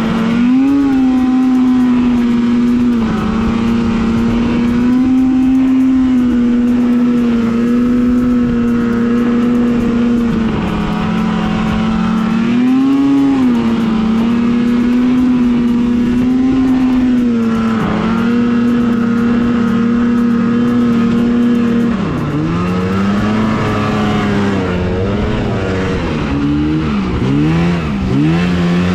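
Two-stroke snowmobile engine running at high, nearly steady revs, with brief rises and dips in pitch. About three-quarters of the way through, the revs drop and then swing up and down.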